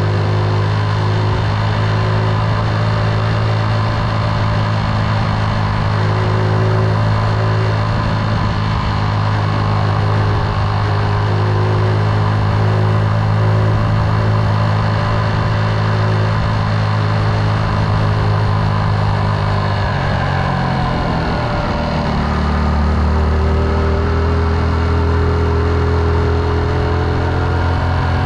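Motorcycle engine running steadily while riding. About twenty seconds in, its note drops and then holds steady at the lower pitch.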